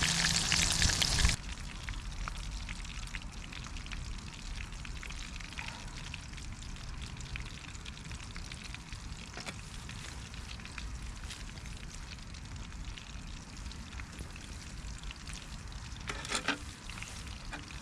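Breaded fish fingers deep-frying in hot oil, a steady sizzle with scattered crackles. It is loud for about the first second, then suddenly drops to a quieter sizzle, with a brief flurry of crackling near the end.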